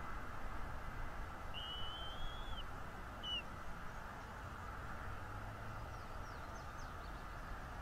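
A thin, high whistled bird call lasting about a second, a short note just after, and a few faint quick chirps near the end, over a steady background hiss.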